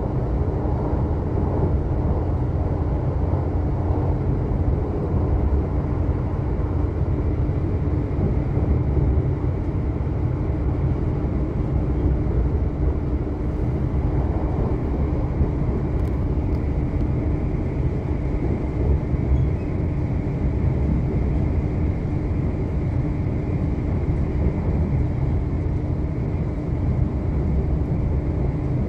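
Passenger train heard from inside the carriage while standing at a station: a steady low rumble with an even, unchanging hum from its onboard equipment.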